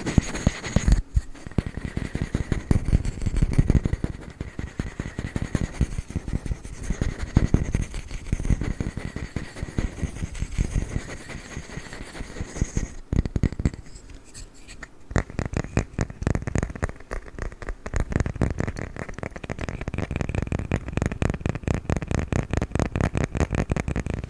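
Fast, dense tapping and scratching on a wooden lid, many quick clicks a second, easing off briefly a little past halfway before picking up again.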